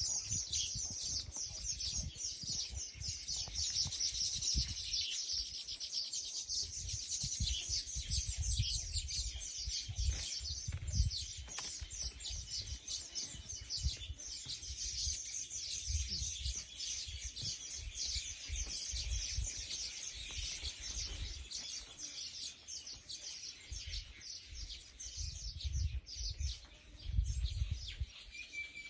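Small birds chirping rapidly and continuously, many short calls overlapping, over an uneven low rumble.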